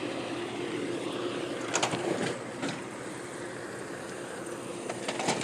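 A vehicle engine idling steadily, with a few short knocks around two seconds in and near the end.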